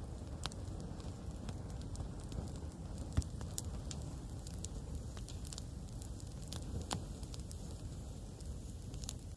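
Campfire burning, crackling with irregular sharp pops over a steady low rush of flame, one pop louder than the rest about three seconds in.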